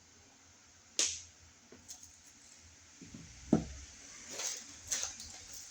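Scattered clicks and knocks of hand-handled electrical hardware (outlet, box extension and screws). A sharp click about a second in is the loudest, a duller knock comes about three and a half seconds in, and lighter clicks follow.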